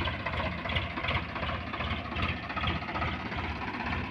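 Tractor engine running steadily with a rapid low pulsing.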